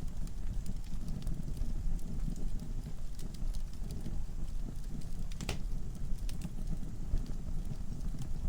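Wood fire burning in a fireplace: a low steady rumble of the flames with scattered sharp crackles and pops from the logs, one louder pop about five and a half seconds in.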